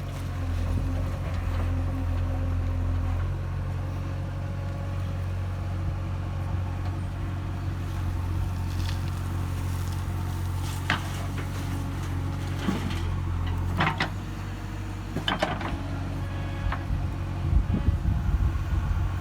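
JCB 3DX backhoe loader's diesel engine running steadily, with a few sharp clanks and scrapes from about eleven seconds in and a rougher rattling rumble near the end.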